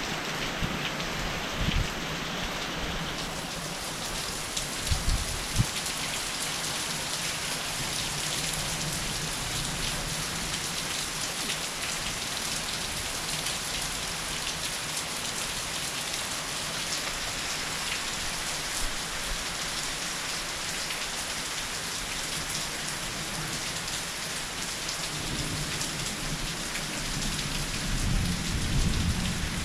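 Heavy rain pouring steadily onto the ground and surfaces during a thunderstorm, with a few brief low thumps in the first seconds and a low rumble of thunder near the end.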